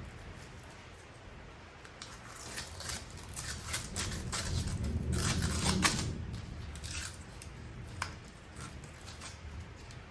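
Metal brake parts and hand tools clicking and scraping as the rear drum brake is put back together, busiest and loudest in the middle with a low rumble under the clicks.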